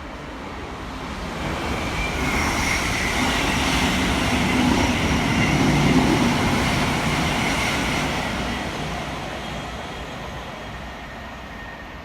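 A passenger train passing on the main line: its rumble and wheel-on-rail noise build up, are loudest about six seconds in, then fade away.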